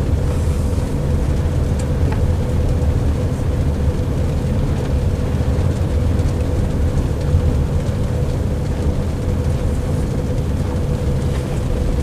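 Steady road and tyre rumble heard inside a car's cabin while the car drives, with a faint constant hum above it.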